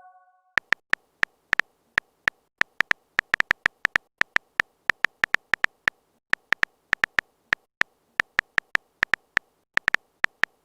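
Typing sound effect: a run of short, sharp keyboard clicks at an uneven pace, a few per second, after a chime fades out in the first half second.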